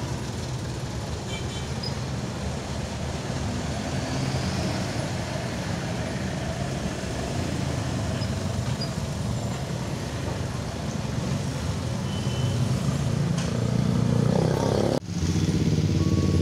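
Road traffic at a railway level crossing: car, truck and motorbike engines running steadily as vehicles idle and pass, growing a little louder near the end, with a brief sharp dropout shortly before the end.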